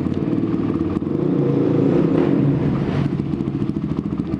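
Motorcycle engine idling steadily, its even firing pulses unbroken.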